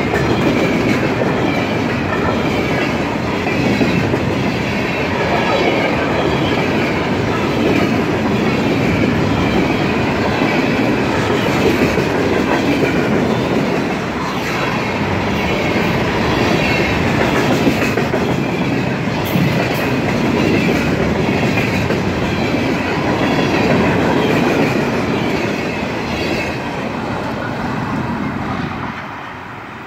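Freight train's steel gondola cars rolling past close by, their wheels running on the rails. The sound drops away near the end as the last car passes.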